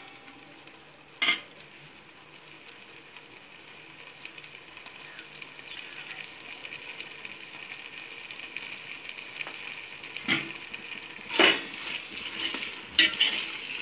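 Onions and tomatoes sizzling as they fry in a stainless steel pot, a steady hiss that grows fuller partway through. A single metal clink about a second in, then a metal spoon clanking and scraping against the pot several times near the end as the mixture is stirred.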